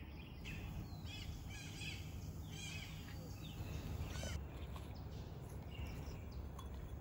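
Small birds chirping in a quick series of short calls, busiest in the first half and sparser later, over a low steady rumble.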